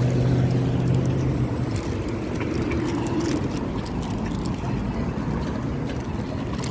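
Road traffic going by: a steady rumble with a low engine hum that fades out about a second and a half in.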